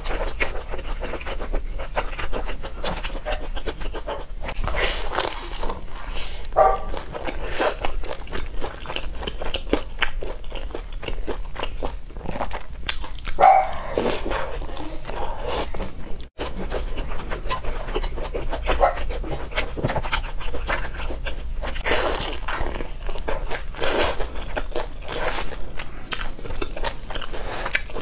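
Close-miked chewing and mouth smacking while eating pan-fried buns with a chive filling: a dense run of small wet clicks, with a few louder moments.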